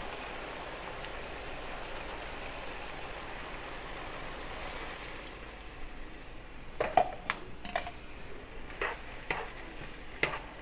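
Beef strips in soy sauce sizzling steadily in a pan, then from about seven seconds in, several sharp clinks and knocks of a utensil against the pan or a dish.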